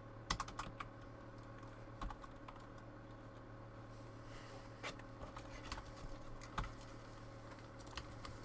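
Scattered light clicks and taps, a few seconds apart, over a steady low electrical hum.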